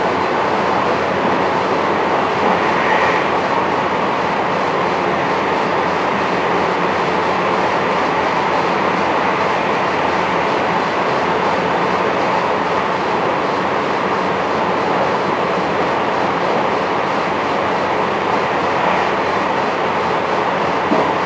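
Steady running noise inside a JR West 223 series 1000 electric multiple unit motor car (KuMoHa 223-1008) on the move: wheels rumbling on the rails under a continuous hiss.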